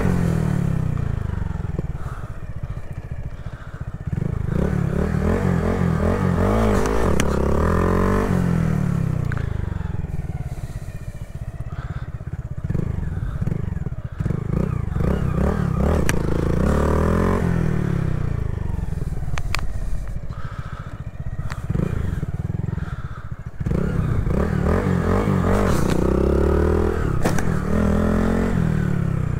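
Honda Grom's 125 cc single-cylinder four-stroke engine revving up and dropping back over and over, the sound of clutch-up wheelie practice.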